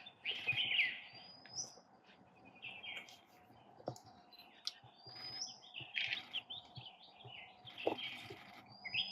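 Forest birds chirping and calling, many short calls overlapping, with one high whistled call coming back several times. A couple of short sharp clicks are also heard.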